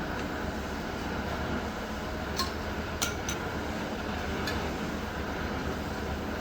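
A steady low rumble with a few short, sharp clinks around the middle.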